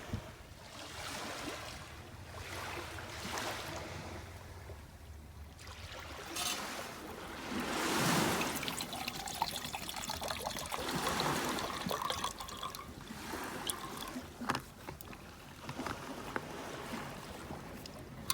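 Small waves washing in and lapping at the shore, swelling and falling back every couple of seconds, with a few sharp clicks.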